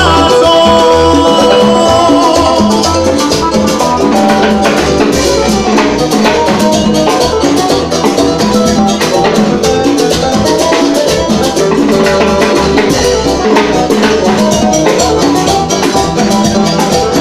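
Live Latin dance band playing an instrumental passage of a son/rumba, with steady percussion, drum kit and bass under sustained melodic lines, played loud through a PA system.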